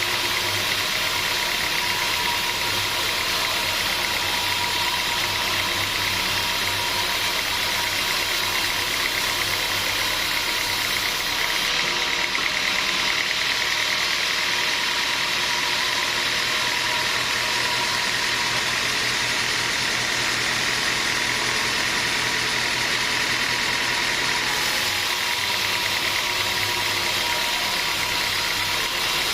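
Sawmill machinery running steadily: a continuous mechanical drone with a steady whine and a low hum.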